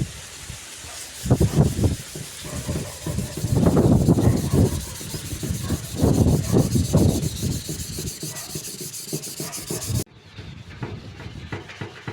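Hand sanding of an old PC case: irregular rubbing strokes of abrasive on the panel. The sound cuts off abruptly about ten seconds in, then fainter strokes follow.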